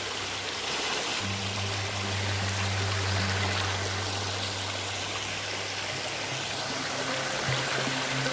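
Rushing water of a jungle stream, a steady hiss, under background music with low held notes that change about a second in and again near the end.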